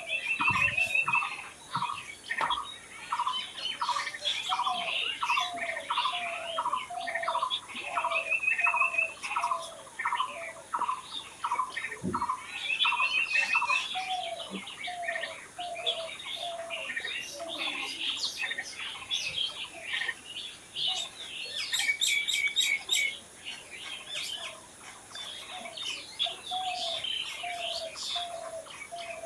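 Several birds chirping and singing together. One bird repeats a short two-note call about twice a second through most of it. Brief rapid trills are heard now and then, with a burst of high, thin chirps a little past the middle.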